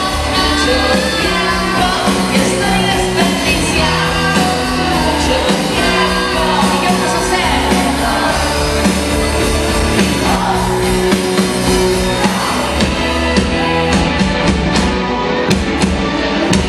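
Band playing a song live, with a sung vocal over full instrumentation.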